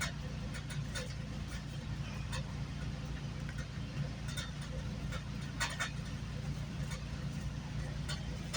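A GO Transit commuter train running between stations, heard from on board: a steady low rumble with scattered clicks and rattles, a cluster of them a little past halfway.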